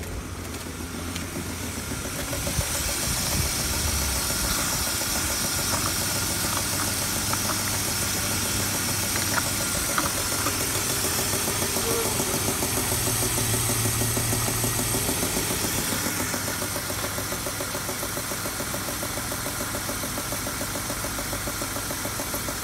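BMW M52B25 2.5-litre inline-six engine idling steadily in an E36. It gets louder about two seconds in and a little quieter again about two-thirds of the way through.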